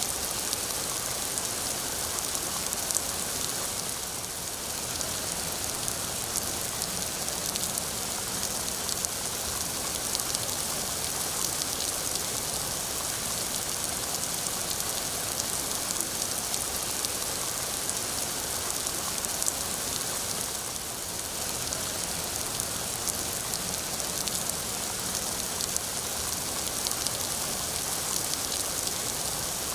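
Steady rain falling: a dense, even hiss dotted with fine drop ticks, easing slightly for a moment twice.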